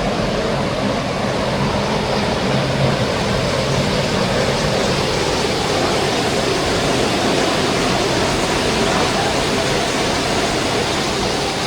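Steady rushing of a waterfall and its cascading mountain stream, an unbroken loud hiss of falling water.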